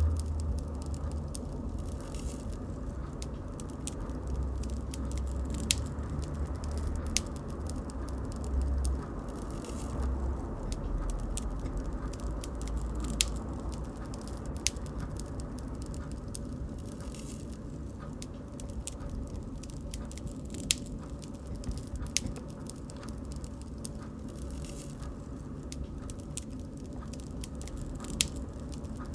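Bonfire crackling: irregular sharp pops and snaps of burning wood over a low, steady rumble of the flames.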